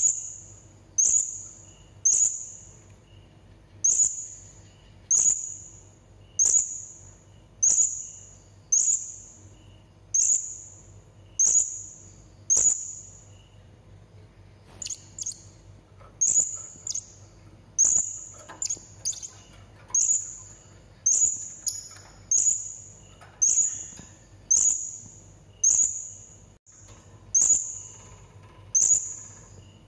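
Blue-crowned hanging parrot (serindit) giving a long series of short, shrill, very high calls, about one a second, with a few weaker calls in a brief lull near the middle.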